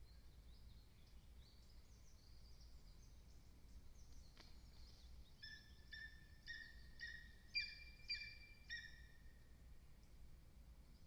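A bird calling about eight times in quick succession, short clear notes with overtones at roughly two a second, over faint high songbird twittering in the woods around.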